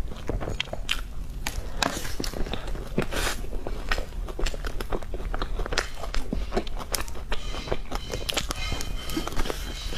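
Close-miked eating of cream puffs: biting and chewing, heard as a dense, irregular run of small clicks and crackles.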